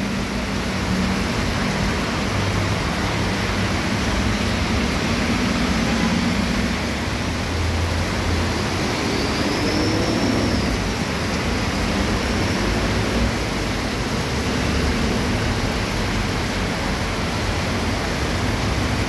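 Heavy tropical downpour on a city street, a steady hiss of pouring rain, with the low hum of passing traffic engines and tyres on wet road beneath it.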